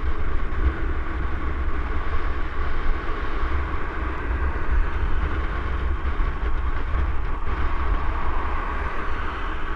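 Continuous rushing rumble of a mountain bike being ridden: wind buffeting the camera microphone over the rolling noise of the tyres on the trail.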